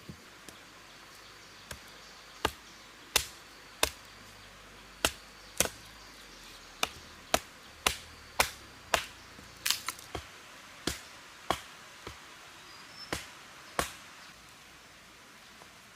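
A run of about twenty sharp chopping strikes with a blade, at roughly one or two a second, that stops about two seconds before the end.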